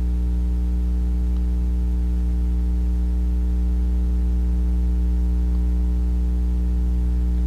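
Steady electrical mains hum with a buzzy row of overtones and a faint hiss, unchanging throughout: electrical interference picked up by the recording setup.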